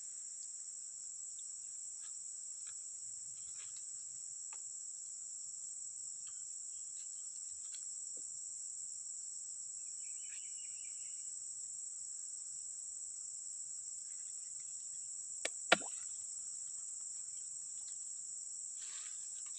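A steady, high-pitched insect chorus drones without a break. Two sharp knocks sound close together about fifteen and a half seconds in.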